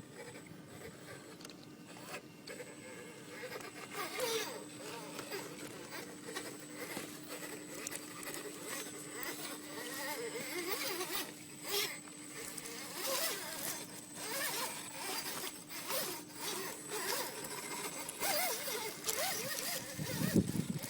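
Electric motor and geared drivetrain of a 10x10 RC scale crawler truck running slowly with a steady whine, with scratchy crackling and scraping as its tyres grind over rock and grit. A louder low rumble comes near the end.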